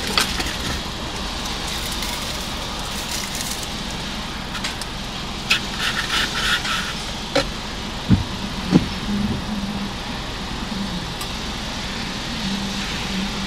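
Car engine idling steadily, heard from inside the cabin. About halfway through comes a short run of light clicks, followed by two sharp knocks.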